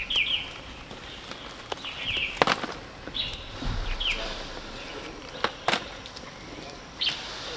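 Small birds chirping in short, repeated downward-sweeping calls, with a few sharp clicks or snaps in between; the loudest snap comes about two and a half seconds in.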